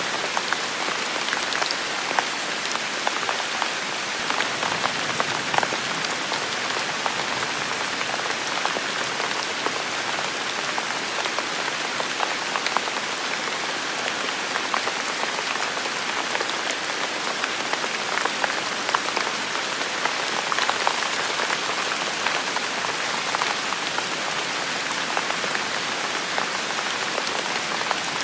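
Steady heavy rain falling, a dense hiss of countless drops with small individual patters scattered through it.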